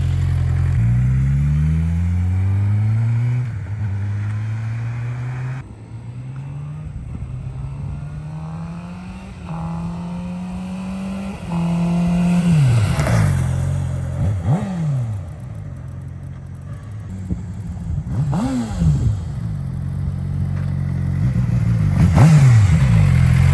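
2019 Suzuki GSX-R600 inline-four on its stock muffler with catalytic converter, pulling away through the gears in a series of rising revs, then riding past several times, each pass a quick rise and fall in pitch and loudness.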